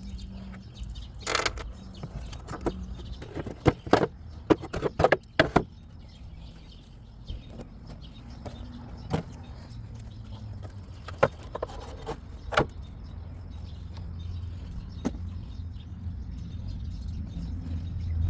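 Scattered sharp clicks and knocks, a quick run of them about four to five seconds in, over a low rumble that swells near the end.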